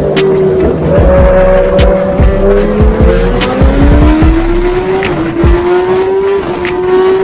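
Superbike engine accelerating hard at full throttle. Its pitch climbs steadily and drops sharply at upshifts, about five and six and a half seconds in, over heavy wind noise.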